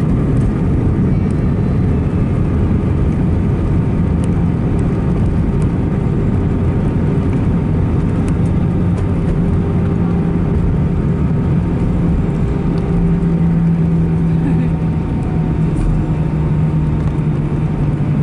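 Steady cabin noise inside an Airbus A319-111 with CFM56 engines: a loud rumble of engines and airflow, with a low hum that grows stronger about halfway through.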